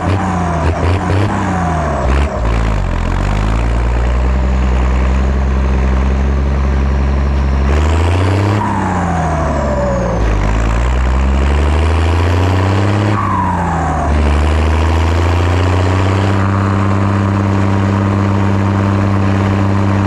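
Zetor ZTS 16145 tractor's turbocharged diesel engine working under load, pulling a deep cultivator. Its revs sag and pick back up three times, and each time a falling turbo whistle is heard.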